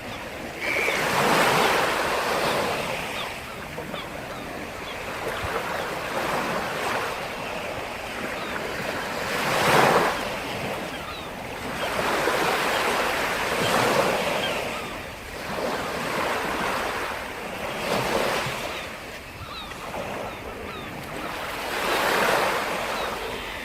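Black Sea surf: waves breaking and washing up the shore one after another, each swelling and fading over a few seconds, the loudest about ten seconds in.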